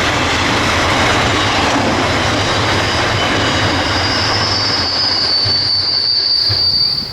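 Freight train wagons rolling past with steady, loud running noise; a high steady wheel squeal comes in and grows louder from about halfway through. The sound drops away suddenly near the end.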